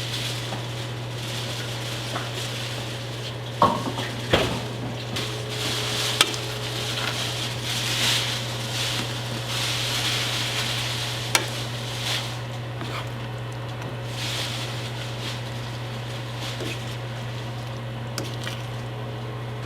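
Kare-kare stew cooking in a pot with a steady sizzling hiss, stirred with a utensil that clicks sharply against the pot a few times. A steady low hum runs underneath.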